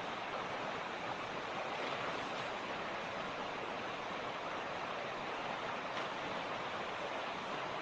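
Mountain creek flowing, a steady even rush of water over stones.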